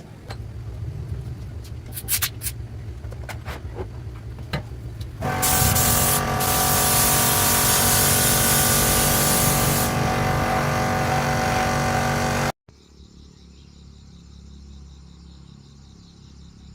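A machine engine running: a low rumble with a few clicks, then much louder with a steady hiss from about five seconds in, cutting off abruptly to a quieter low hum about twelve seconds in.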